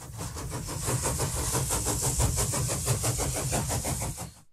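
Train running, with a fast, regular beat of about six strokes a second over a low rumble, cutting off suddenly near the end.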